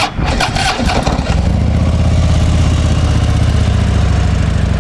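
2013 Harley-Davidson Tri Glide's 103 cubic inch V-twin starting: a click, about a second of cranking as it catches, then a steady idle through the factory exhaust.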